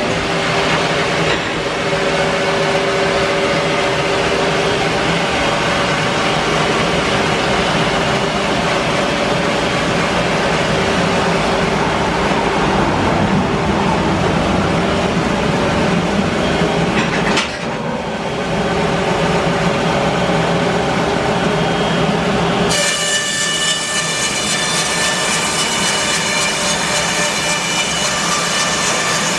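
Bandsaw mill running and cutting through a larch log with a steady, loud mechanical noise. About three-quarters of the way through the sound changes and a set of high whining tones comes in.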